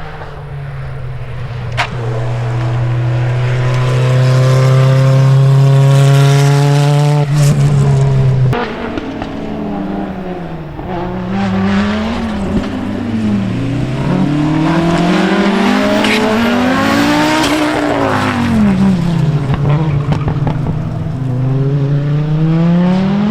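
Rally car engine, first held at steady high revs for several seconds, then revving up and dropping back again and again as it accelerates and changes gear. A few sharp cracks sound over it, with another rising run near the end.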